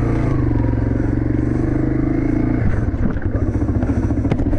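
Motorcycle engine running under way, a steady note for about two and a half seconds that then drops to a lower, rapidly pulsing beat.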